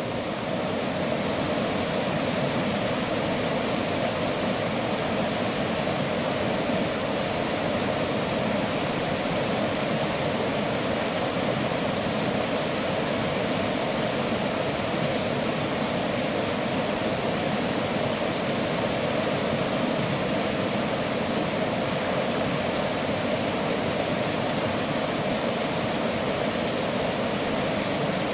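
Creek water running in a steady, unbroken rush, fading up over the first second.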